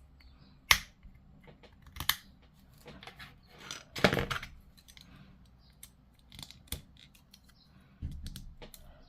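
Hard plastic model-kit parts being handled and pressed together: several sharp clicks and a longer scraping rustle about four seconds in.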